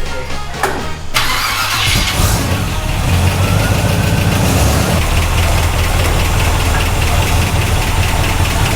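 Classic car engine cranked and catching about two seconds in, then running at a fast idle that settles around five seconds in. Its ignition timing has not yet been set.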